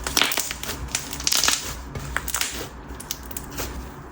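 Fine glass-sand slime being squeezed and pressed by hand, giving an irregular run of soft crackling, crunching pops. They are busiest in the first couple of seconds and thin out toward the end.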